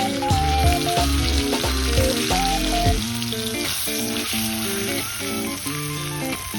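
Thick steak sizzling as it fries over a campfire, a steady hiss under background music.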